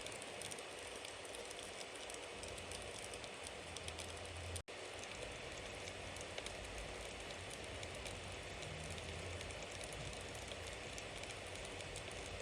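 Bonfire burning with a steady hiss and many small crackles and pops. It cuts out for an instant about four and a half seconds in.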